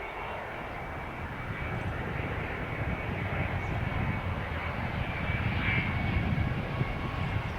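Jet airliner on approach to land, its engines rumbling with a high fan whine. The sound grows louder over about six seconds and then eases slightly.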